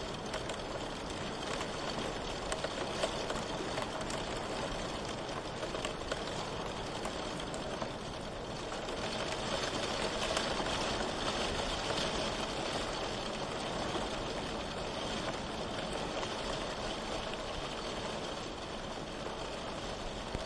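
Steady rain falling, a continuous hiss with scattered drop ticks, growing a little heavier around the middle.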